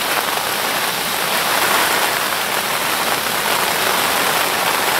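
Heavy rain falling steadily on the lake's surface, a dense even hiss.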